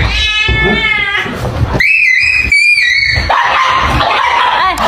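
Cat and dog play-fighting, crying out: a wavering cry at the start, a high drawn-out cry for about a second and a half in the middle, then short rising-and-falling dog whines near the end.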